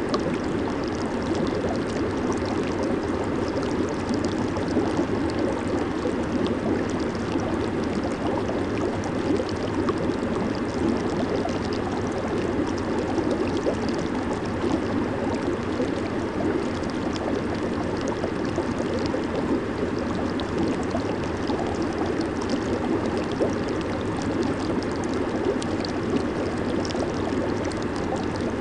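Jacuzzi hot tub running: a steady bubbling and churning of water from the jets and air bubbles, with a fine fizz of bursting bubbles on top.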